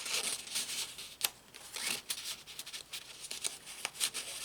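Paper pages of a handmade journal rustling as they are handled and turned, with a few sharp ticks among the rustles.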